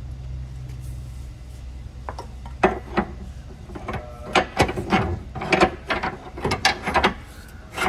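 Hand tools working on the car's axle fasteners: a steady low hum at first, then from about two seconds in a run of irregular metallic clicks and clanks, like a ratchet wrench and tools striking metal.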